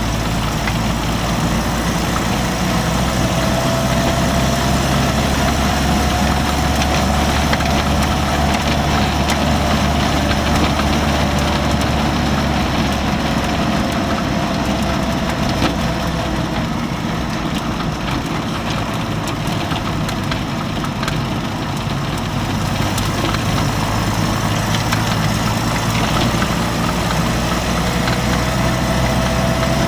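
Series Land Rover engine running steadily as the vehicle drives, with a faint tone that drifts slightly up and down in pitch.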